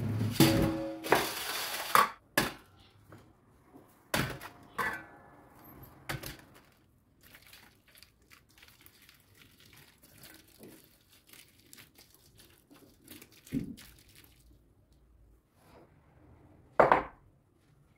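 Kitchenware handled on a counter: a clatter of clinks and knocks in the first couple of seconds, a few more knocks, then soft rustling and small ticks, with one sharp knock near the end.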